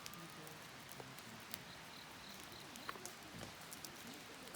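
Wood campfire crackling quietly, with a few sharp pops, the clearest about a second and a half and three seconds in.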